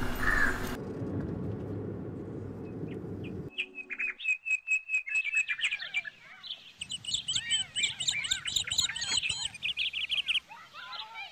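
A low rumble that stops about three and a half seconds in, then birds chirping: quick repeated chirps at first, then a dense chorus of high chirps that thins out near the end.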